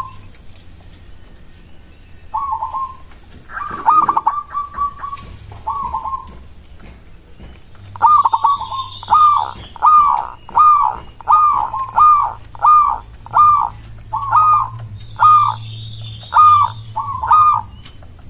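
Zebra dove (perkutut) cooing: a few separate coo phrases, then from about halfway a fast, even run of some fifteen short coo notes, a little more than one a second.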